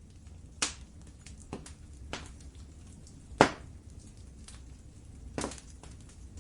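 Wood fire crackling in a fireplace: a steady low rumble with sharp pops and small ticks at irregular intervals. The loudest pop comes about three and a half seconds in.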